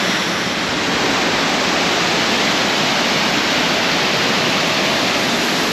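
Waterfall rushing steadily: a loud, even hiss of falling water with no breaks.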